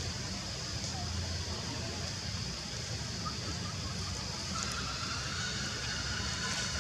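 Steady outdoor background noise: a low rumble under a constant high hiss, with a few faint short chirps.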